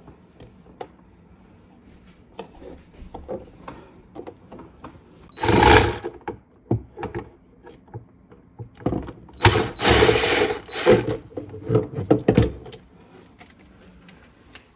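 A small power drill running in short bursts, once briefly about five and a half seconds in and then in a string of bursts over the last few seconds, among small clicks and knocks of parts being handled during refrigerator disassembly.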